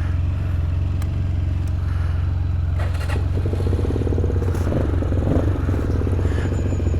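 MGB ATX 125cc adventure motorcycle engine idling steadily, with a second, higher steady drone joining from about three seconds in and a few light clicks.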